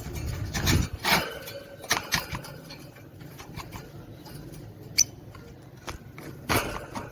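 Caged budgerigars scratching and shuffling with irregular small clicks, with a few short squeaky calls and one sharp high chirp about five seconds in.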